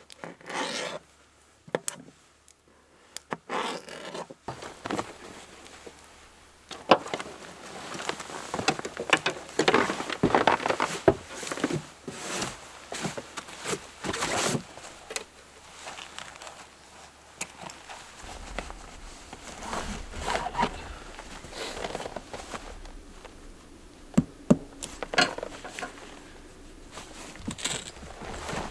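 Irregular scraping and rubbing noises with a few short sharp clicks, coming and going in bursts.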